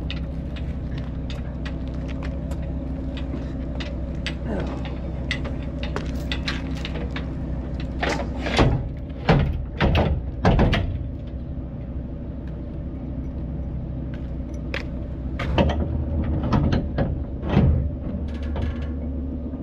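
A vehicle engine idling steadily, with scattered clicks and knocks and two louder spells of sound, one about eight seconds in and one near sixteen seconds.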